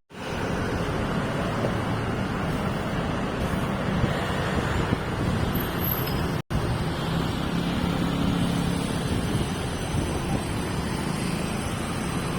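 Steady vehicle and traffic noise, broken twice by abrupt drops to silence, at the start and about six and a half seconds in.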